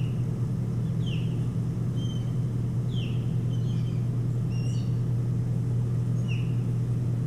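A bird gives short, high whistled calls, about six sharp chirps spaced roughly a second apart, several of them sliding downward. The calls sit over a steady low hum, which is the loudest sound.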